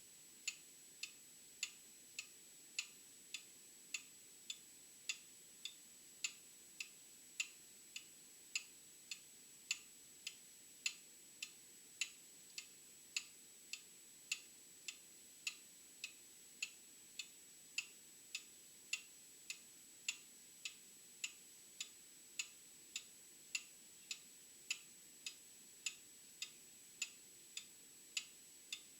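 Old clock ticking steadily, a little under two ticks a second, with a faint steady high tone underneath.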